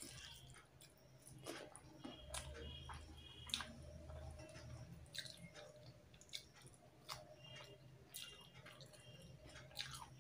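Faint chewing and wet mouth clicks of a person eating rice and fish curry, with soft squishing of rice being mixed by hand on a steel plate. Short irregular clicks over a low steady hum.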